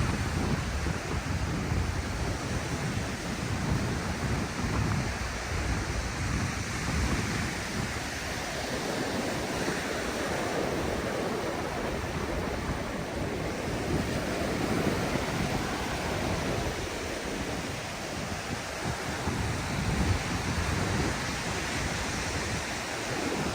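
Ocean surf washing onto a sandy beach, a steady rush of breaking waves, with wind gusting against the microphone.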